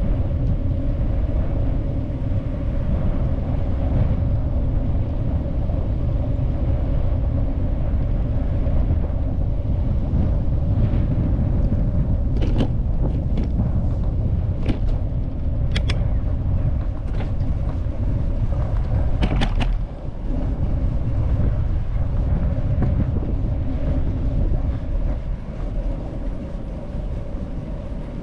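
Steady low rumble of wind and road noise on a bicycle-mounted or handheld camera while riding, with a faint steady hum. A handful of sharp clicks or ticks come in the middle.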